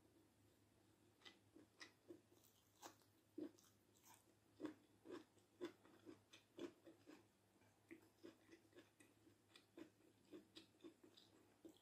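Faint, close-miked chewing of food, a run of soft wet chews about twice a second with some crisper crunching clicks, over a low steady electrical hum.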